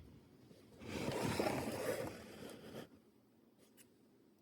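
A rough scraping sound starting about a second in and lasting about two seconds, as the heat-set tool and prop shaft are handled against the 3D-printed part, followed by a couple of faint clicks.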